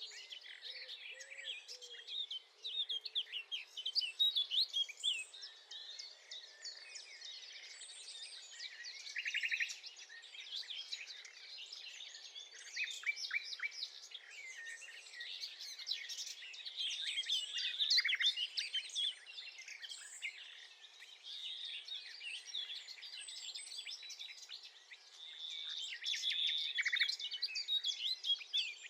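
Common nightingale singing: a varied, continuous run of fast rattling trills and whistled notes, with a held whistle near the end.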